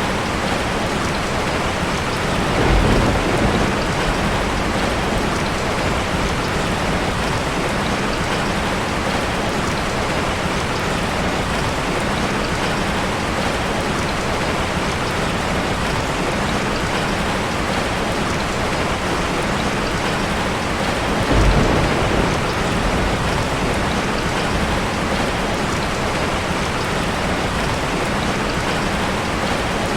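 Heavy rain falling steadily, with two brief low rumbles of thunder, about three seconds in and again about twenty-one seconds in.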